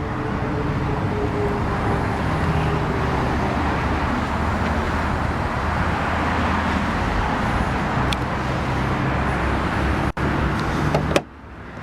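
Steady motor-vehicle noise, an even rumbling hiss with a low hum, cutting off abruptly near the end.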